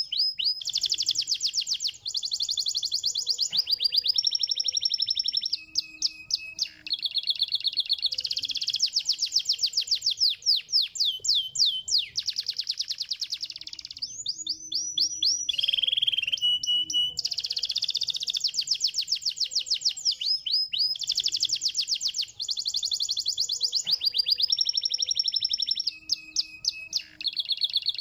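Domestic canary singing: fast, rolling trills of repeated high notes, each trill a different note type, switching every second or two with brief pauses.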